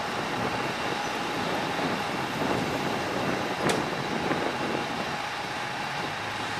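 A BMW M6 coupe's V10 engine pulling away slowly, the sound swelling a little in the middle as it drives off, over steady traffic noise. A single sharp click comes a little past halfway.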